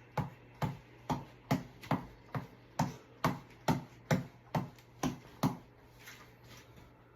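Tap ball (reflex ball on a headband cord) being punched over and over in a steady rhythm, about two hits a second, until the hits stop about five and a half seconds in.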